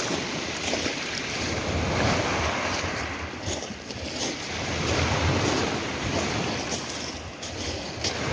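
Sea waves washing on the shore of a bay, swelling and ebbing twice, with wind buffeting the microphone.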